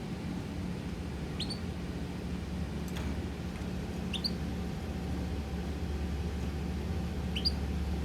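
A pet bird gives three short, rising chirps a few seconds apart over a steady low hum.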